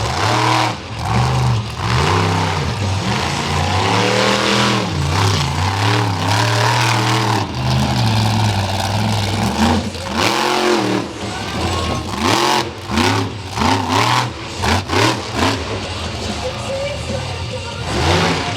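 Monster truck engine revving hard again and again, its pitch repeatedly rising and falling, with a run of sharp bangs in the second half.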